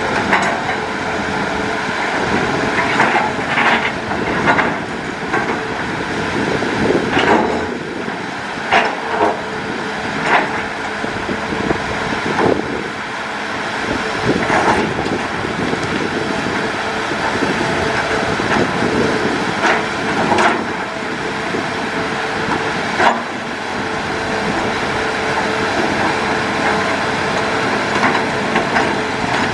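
Hitachi Zaxis hydraulic excavator working: a steady engine and hydraulic drone with irregular sharp clanks and knocks as it digs.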